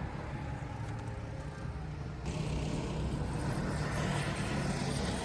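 Go-kart engines running on the track: a steady low engine hum, with a steady hiss that gets louder about two seconds in.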